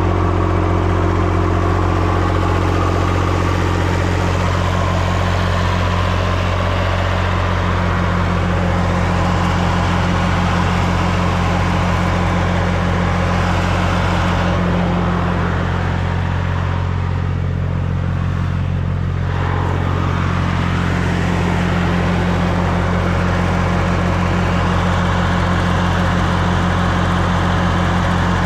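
Massey Ferguson 245 diesel tractor engine idling steadily, being run up to temperature after a radiator flush to check whether it still overheats.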